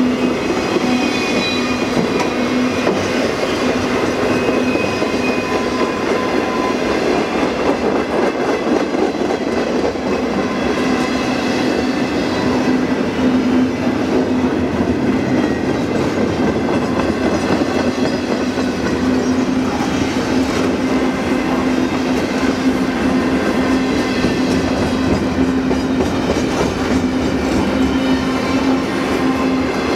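Norfolk Southern intermodal freight train's cars rolling past close by: a loud, steady running noise of wheels on the rails, with a constant low hum underneath.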